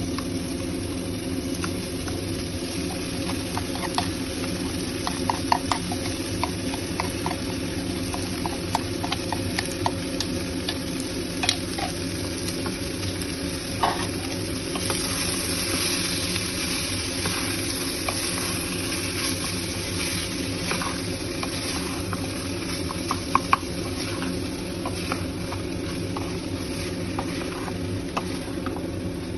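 A spatula stirring and scraping grated paneer with spiced onion and tomato in a kadai, with irregular scrapes and clicks against the pan. The frying sizzle brightens about halfway through, over a steady low hum.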